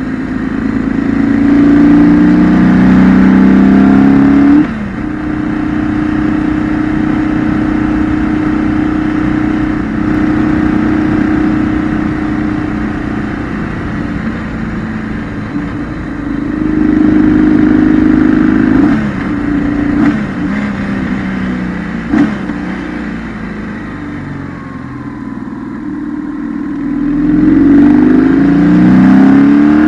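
2008 BMW R1200GS's air/oil-cooled flat-twin boxer engine riding through mountain bends. It revs up three times, near the start, about midway and near the end, each climb in pitch broken off suddenly, with steadier running and a slow fall in revs between.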